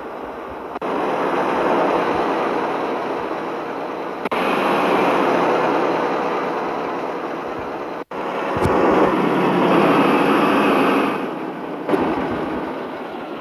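Mitsubishi Fuso truck running, a dense steady engine and road noise. The sound cuts abruptly from one shot to the next about a second in, around four seconds, with a brief dropout around eight seconds, and near twelve seconds.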